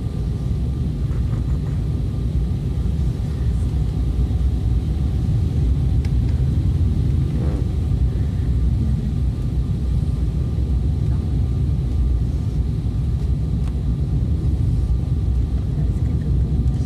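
Airliner cabin noise during descent to landing: a steady low rumble with a faint steady whine above it.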